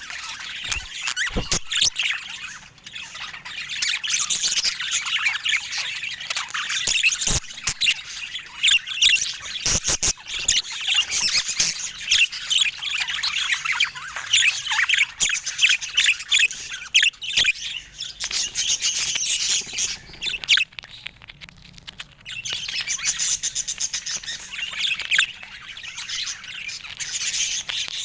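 Budgerigars chattering: a dense, continuous run of fast chirps, warbles and squawks, easing briefly about twenty seconds in. A few sharp clicks sound in the first ten seconds.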